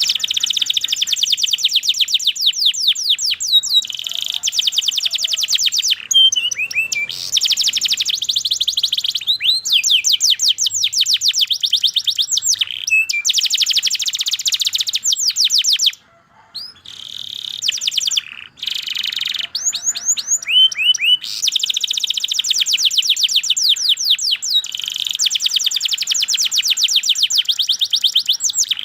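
Domestic canary singing a long song of fast rolling trills, with short breaks about six and sixteen seconds in.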